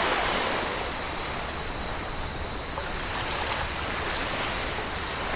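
Ocean surf washing on a beach: a steady wash of waves, slightly fuller at the start, with a thin high steady tone running under it.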